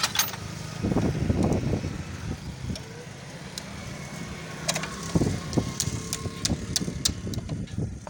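Metal hand tools clinking against motorcycle parts in scattered sharp clicks during a clutch-plate job, over a steady low hum of vehicles.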